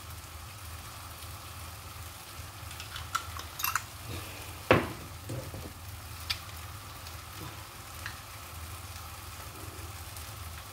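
Chicken in tomato and chili sauce frying gently in a wok, a steady low sizzle over a low hum. A few clicks and one sharper knock about halfway through come from a sauce bottle being handled and shaken.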